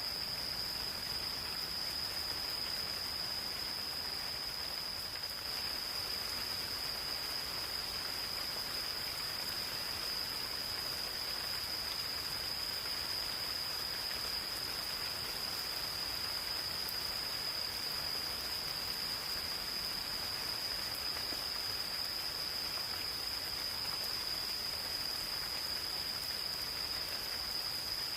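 Gentle rain falling steadily in a forest, an even hiss, under a continuous high-pitched insect chorus that holds one unchanging pitch.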